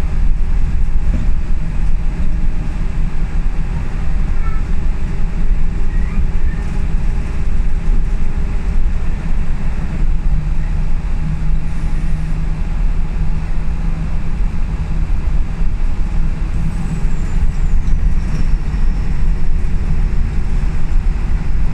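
Scania L94UB bus's diesel engine and road noise heard from inside the cabin while driving: a steady low drone, the engine note a little stronger around the middle.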